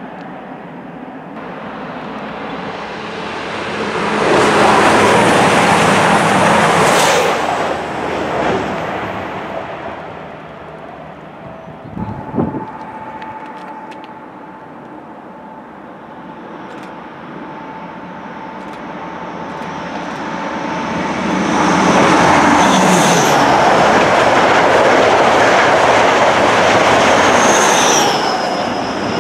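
Trains passing at speed, twice: the first rushes by about four seconds in. After a short knock a little past halfway, a second approaches with a steady whine and passes loudly through the last third.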